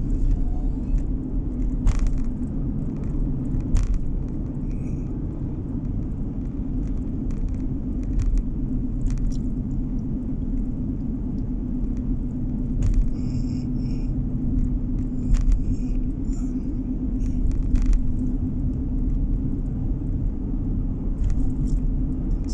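Steady low rumble of a car driving, heard from inside the cabin as road and engine noise, with a few scattered short knocks or rattles.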